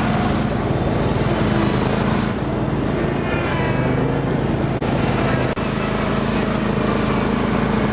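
Riding lawn tractor's small engine running steadily.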